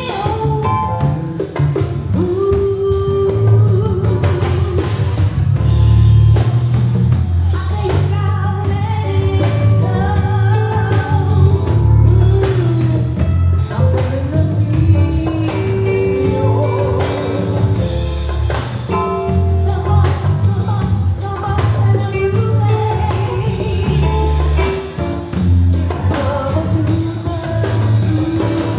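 Live band music with singing over a strong bass line and drums.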